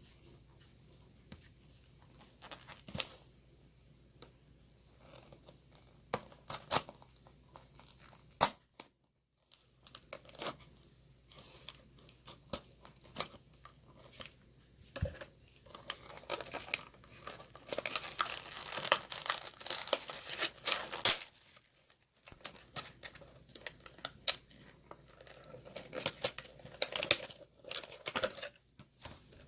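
Die-cast toy car packaging, a plastic blister and cardboard backing card, being torn and crinkled by hand: scattered clicks and rustles at first, then a dense stretch of crackling past the middle and another near the end.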